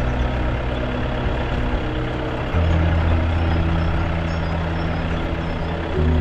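A vehicle driving along a rough road, its engine and road noise steady, under background music with held low chords that change about two and a half seconds in and again near the end.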